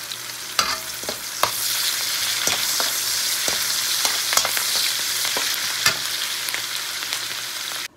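Chopped onion, garlic and ginger sizzling in hot oil in a wok, with a metal spatula scraping and clicking against the pan as it stirs. The sizzle cuts off suddenly near the end.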